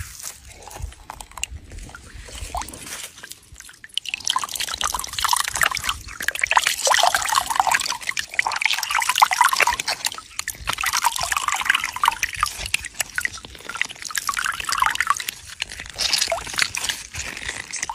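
Water pouring and splashing in a dense crackling patter, louder from about four seconds in.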